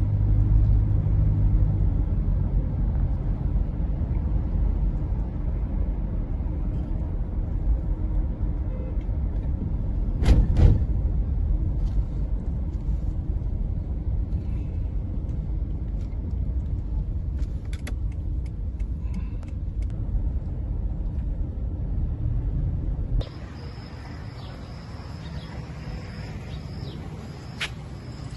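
A loud, low, steady rumble with a single sharp knock about ten seconds in. Near the end it cuts off abruptly to a quieter outdoor hiss with a high, thin, steady tone and short chirps.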